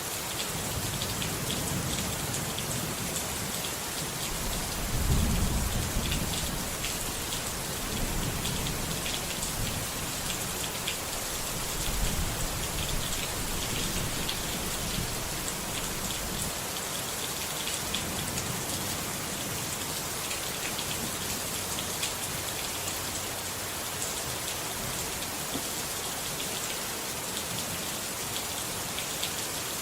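Steady rain pattering, with a dense hiss and fine drop ticks. Low rolls of thunder swell about five seconds in and again around twelve seconds.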